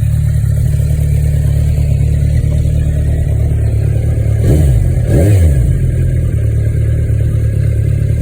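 Kawasaki Z1000SX inline-four engine idling, blipped twice in quick succession about four and a half seconds in, each rev rising and falling back before it settles to idle again.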